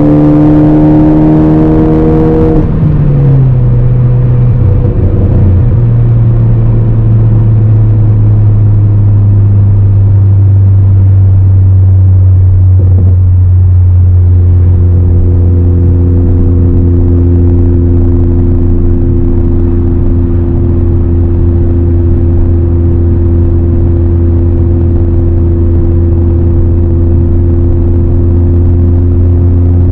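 2018 Ford Focus ST's turbocharged 2.0-litre four-cylinder with a Roush exhaust, driving. About two and a half seconds in the revs fall, and the engine settles into a steady low drone at cruising revs.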